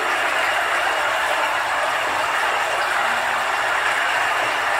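Small battery-powered remote-control boat running on the water, a steady even whir and hiss from its electric drive and propeller.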